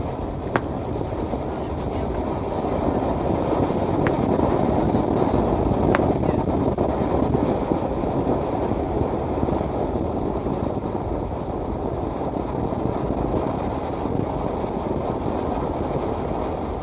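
Steady low rushing of wind buffeting the microphone, swelling a little about three to eight seconds in, with three faint sharp pops.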